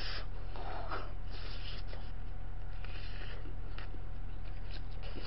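Soft, scattered chewing and mouth sounds of someone eating a dumpling, with a few faint clicks, over a steady low electrical hum.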